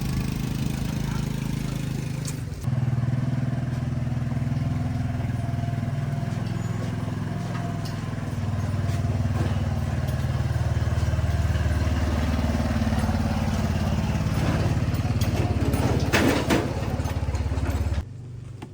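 A vehicle engine running steadily, getting louder about two and a half seconds in, with a brief rattle near the end before it cuts off suddenly.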